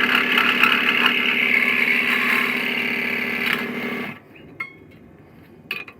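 Electric scroll saw running steadily with a motor hum, then switched off about four seconds in, followed by two faint clicks.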